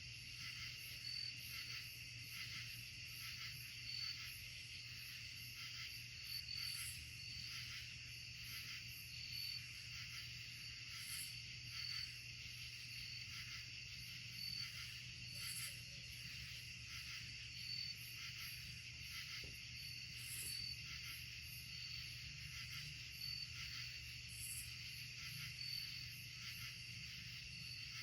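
Night insect chorus of crickets, a steady chirring with one short high chirp repeating about once a second, over a faint steady low hum.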